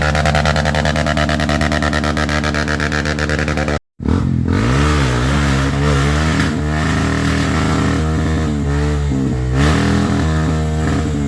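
Dirt bike engine held at steady high revs. After an abrupt cut about four seconds in, it revs up and down again and again.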